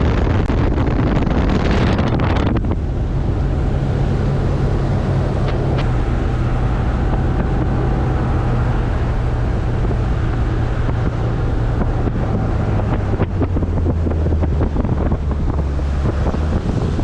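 Motorboat engine running steadily under way, with heavy wind noise on the microphone and rushing water. The wind hiss eases about two and a half seconds in, and the engine note drops slightly after about twelve seconds.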